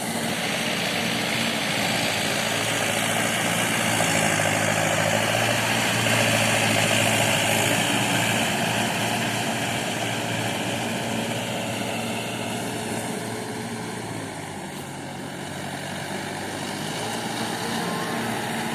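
Tractor engine running steadily. It eases off about two-thirds of the way through, then builds again.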